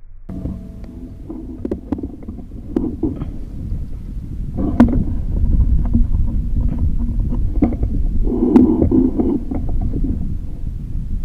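Low rumble of wind on the microphone, growing louder after a few seconds, with scattered clicks and knocks of handling noise.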